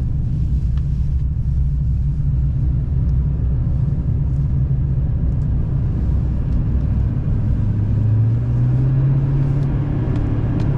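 Steady low engine and road rumble heard from inside the cab of a 2015 GMC 2500HD pickup truck on the move. The low engine drone rises slightly in pitch about eight seconds in.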